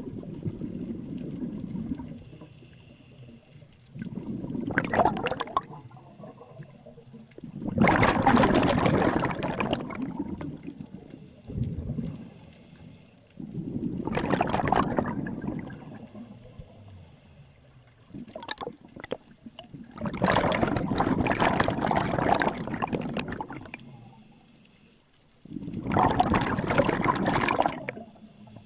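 Scuba diver breathing through a regulator underwater: a noisy rush of exhaled bubbles every five to six seconds, each lasting two to three seconds.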